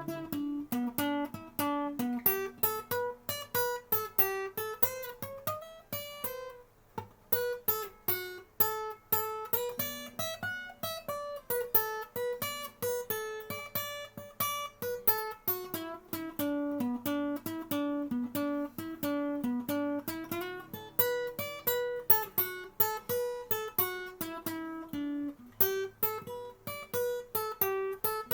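Acoustic guitar music played with single picked notes in quick succession, the melody climbing and falling in pitch, with a brief break about six and a half seconds in.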